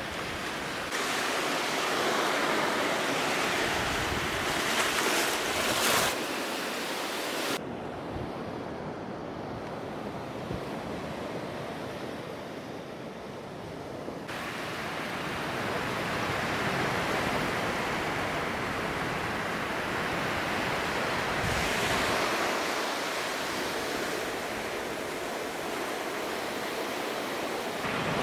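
Ocean surf washing onto a beach, with wind gusting across the microphone. For about six seconds in the middle the sound turns duller, its high hiss suddenly gone.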